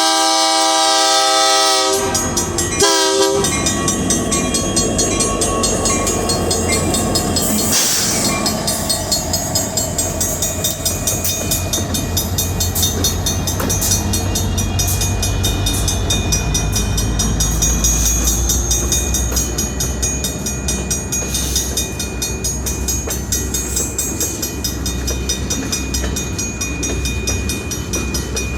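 Train horn sounding a long blast that ends about two seconds in, then one short blast, followed by the train passing with a steady rumble and the rhythmic clickety-clack of its wheels over the rail joints.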